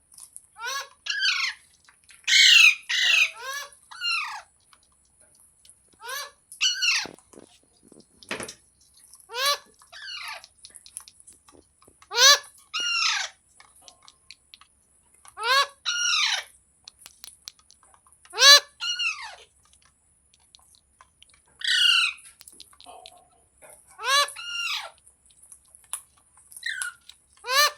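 Pet Indian green parrot giving loud, harsh squawking calls, repeated every few seconds, often two or three in quick succession.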